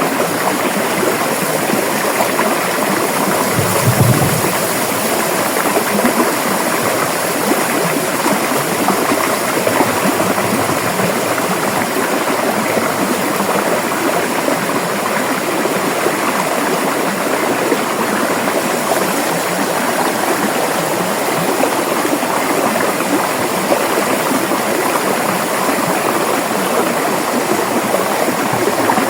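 River water rushing steadily over rocks, an even full-range wash with no let-up. About four seconds in there is one brief low thump.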